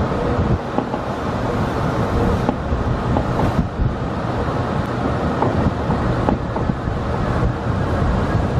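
Tobu Skytree Line local electric train running, heard from behind the driver's cab as it pulls out past the end of a station platform: a steady low rumble of wheels on rails and running gear.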